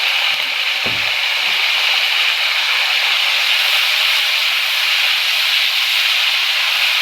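Cashews, almonds and ginger garlic paste sizzling steadily in hot oil in a cooking pot, with a single low knock about a second in.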